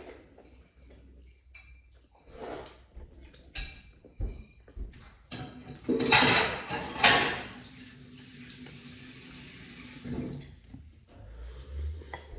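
Dishes and utensils clatter, then about six seconds in a loud rush of water starts and settles into a steady hiss for a few seconds.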